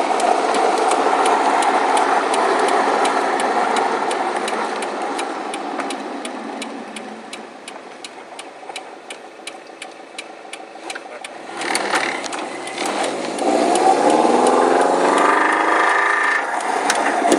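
Subaru WRX turbocharged flat-four engine with a rod knock: a regular sharp knock, about four a second, over the engine as it winds down and coasts. About two-thirds through it pulls again, the engine pitch rising. The knock is the sign of a failing connecting-rod bearing.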